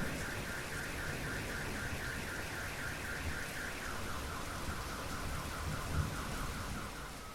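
Steady rain with a car alarm sounding over it: a fast warbling tone of about four pulses a second that steps down to a lower pitch about four seconds in and stops near the end.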